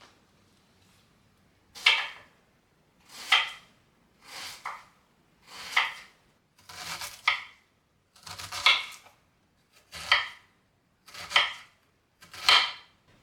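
A knife cutting through food on a cutting board in nine slow, even strokes, one about every second and a half.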